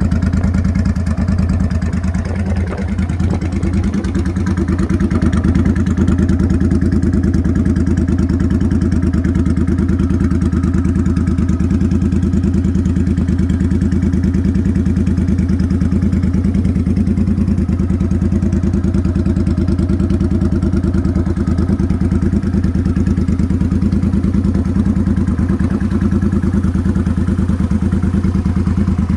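Motorcycle engine running at a steady speed, its even beat holding constant throughout.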